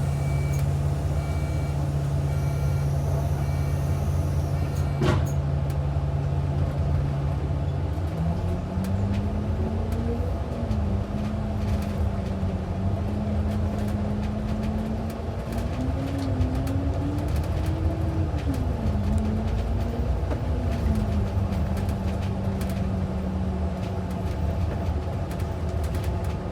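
Transit bus heard from inside the cabin: the engine runs at a steady note, with a short run of electronic beeps in the first few seconds and a sharp click about five seconds in. From about eight seconds in, the engine and drivetrain note rises and wavers up and down as the bus pulls away and drives on.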